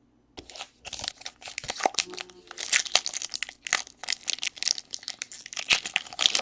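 Packaging on a pack of Panini Diamond Kings baseball cards being torn open and crinkled by hand: a dense run of sharp crackles and rustles that starts about half a second in.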